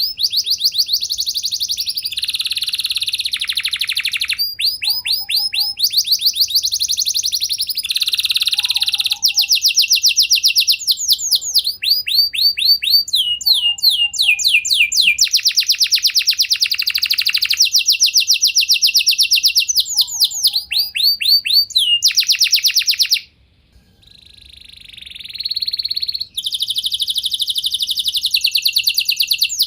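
Domestic canary singing a long song made of rapid trills, each a fast run of repeated high notes, changing from one trill to the next. About three quarters of the way through it breaks off briefly, starts again with a quieter buzzy phrase, then returns to loud trills.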